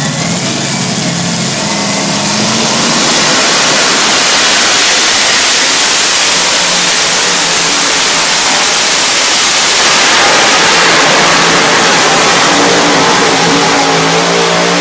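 A competition pulling vehicle's engine revving up and then running loud at full throttle under heavy load for about ten seconds, easing back near the end.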